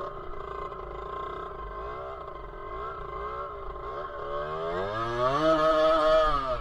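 Dirt bike engine running, its pitch wavering, then revving hard from about four seconds in and growing loud before dropping back near the end.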